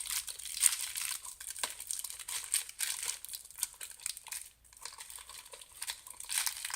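Plastic packaging of a diamond painting kit crinkling and rustling as the bagged beads and rolled canvas are handled and pushed back into the package, in irregular crackles with a brief pause a little past the middle.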